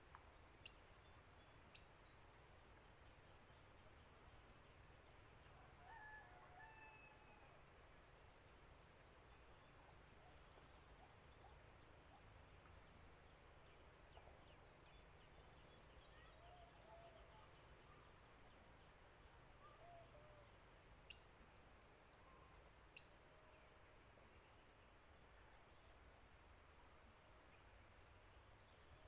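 Crickets trilling steadily at a high pitch in a fast, even pulse. Twice, a few seconds in and again near a third of the way through, a short run of sharp high clicks or chips rises over it.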